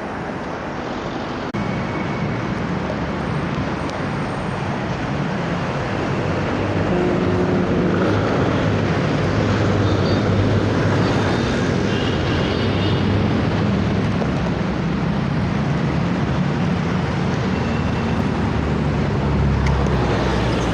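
Road traffic noise heard from a bicycle riding along a city road, with the engines of passing vehicles growing louder through the middle.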